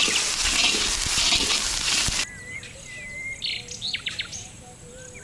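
Onion-and-spice masala frying in a kadai, a loud sizzle that cuts off suddenly about two seconds in. After that, birds chirping and whistling.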